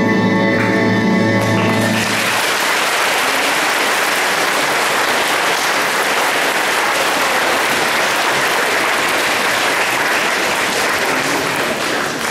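The last held chord of a song ends about two seconds in, and a large audience then applauds steadily, tailing off near the end.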